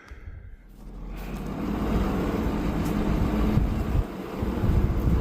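Wind gusting over the microphone: a rushing noise that builds up about a second in and stays loud, with uneven low buffeting underneath.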